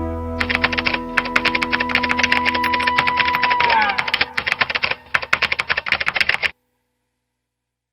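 Rapid, irregular clicking like typing on a keyboard, with a held tone that slides downward about four seconds in. Everything cuts off abruptly about six and a half seconds in.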